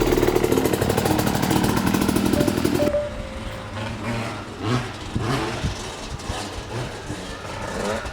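Dirt bike engine running loud and close, with a rapid firing pulse. About three seconds in it cuts off abruptly to a quieter passage of an engine revving up and down.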